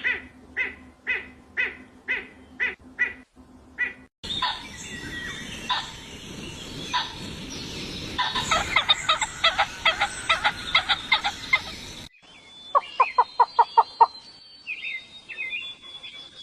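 Calls of several different birds in turn, separated by abrupt cuts. First comes a short call repeated about twice a second. Then a dense run of fast, chattering notes. Last, a quick series of about eight rattling notes followed by short chirps.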